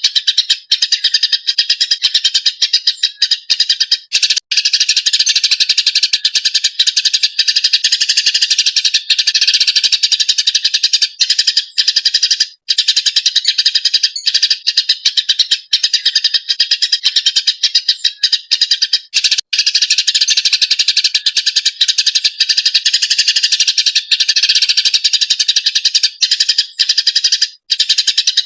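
Eurasian tree sparrow chattering frantically, a dense, unbroken run of rapid sharp chirps with only a few brief pauses.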